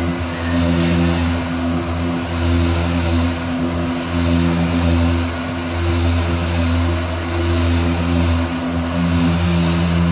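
Power sander running on body filler, a steady motor hum with a high whine, swelling and dipping about once a second as it is worked back and forth across the panel.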